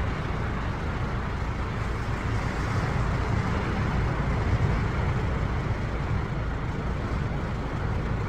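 Sea waves washing onto the shore: a steady rushing noise over a heavy low rumble, swelling a little about four to five seconds in.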